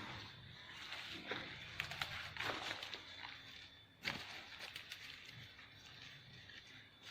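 Footsteps and rustling on the ground as people walk, with scattered short clicks and one sharper knock about four seconds in. A faint, steady high tone sits underneath.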